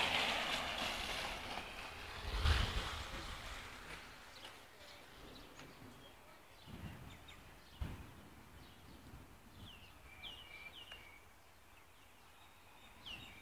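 Gusting wind buffeting the microphone, dying away over the first few seconds, with a couple of dull low thuds midway and a few short bird chirps near the end.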